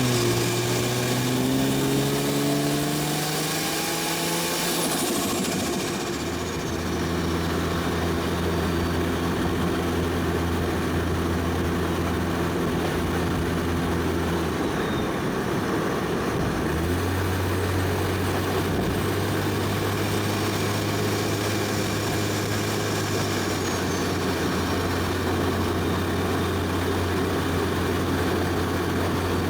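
Single-turbo 1JZ inline-six in a Toyota Soarer revving up for the first few seconds, then dropping back. It holds a steady low note for the rest of the stretch, with a brief break partway through. A faint high whistle falls away as the revs drop.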